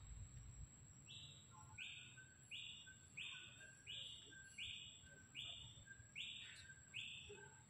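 Faint bird calling: a short, rasping high note repeated evenly about every two-thirds of a second, starting about a second in, over a thin steady high-pitched whine.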